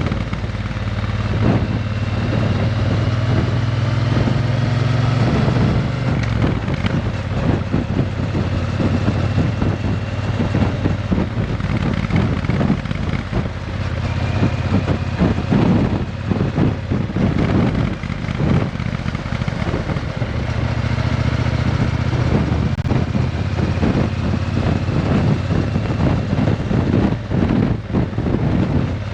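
Triumph Bonneville T120 parallel-twin engine running through a Vance & Hines exhaust, its pitch rising and falling a few times, with gusty wind noise on the microphone.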